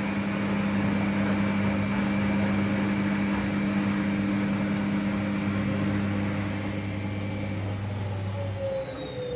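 Hoover 8 kg washing machine spinning its drum at top speed in the spin stage of its test mode, a steady motor hum with a high whine. About seven and a half seconds in, the whine starts falling in pitch as the spin winds down.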